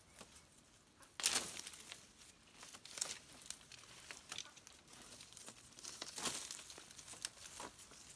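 Irregular rustling and crackling, like dry material being crumpled or torn by hand, with sharper crackles about a second in, near three seconds and around six seconds.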